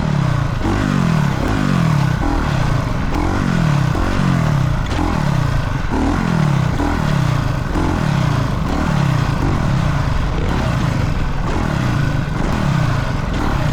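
Dirt bike engine revving hard on a motocross track, its pitch climbing again and again about once a second as the throttle is worked.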